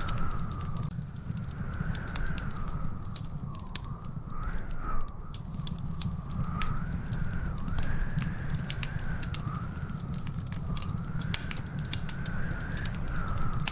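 Wood fire crackling in a fireplace: a constant scatter of sharp pops and snaps over a low, steady rumble, with one louder pop about five seconds in. A thin whistling tone slowly rises and falls behind it.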